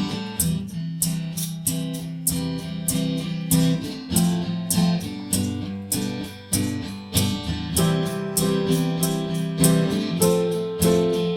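Guitar strummed in a steady rhythm, playing an instrumental introduction with no singing.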